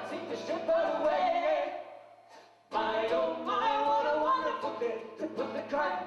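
Voices singing a song, breaking off briefly about two seconds in, then singing again.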